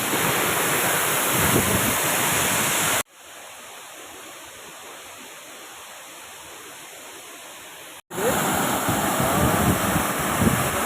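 Palaruvi waterfall's steady rush of falling water. About three seconds in it cuts out abruptly to a much quieter hiss for about five seconds, then returns just as suddenly.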